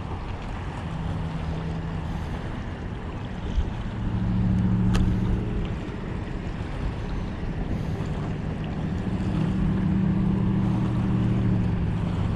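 A low, steady engine hum that swells twice, over wind and water noise, with one sharp click a few seconds in.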